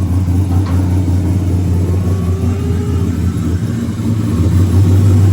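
Newly built LS3 6.2-litre V8 in a drift car running at a steady speed, an even, unchanging engine note with no rise or fall in pitch; it sounds healthy.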